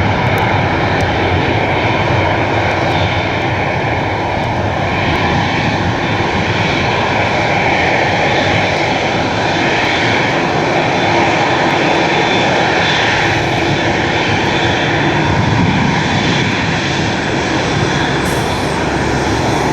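Jet airliner engines running, a loud, steady rushing noise.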